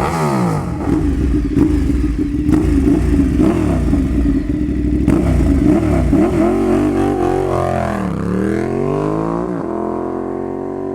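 Ducati L-twin superbike with a Toce slip-on exhaust, the engine revving up and down, the revs dropping and climbing again past the middle.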